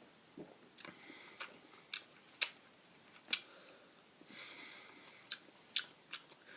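A person tasting beer: sips and soft breaths between a string of sharp wet mouth clicks and lip smacks, about seven over several seconds.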